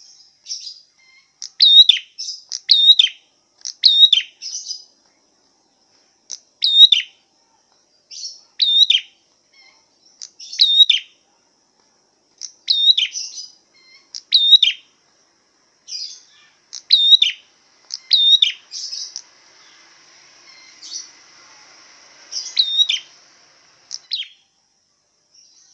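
A songbird calling: short, sharp chirps that each sweep down in pitch, repeated at uneven gaps of one to two seconds. A faint, high, buzzy trill runs for a few seconds past the middle.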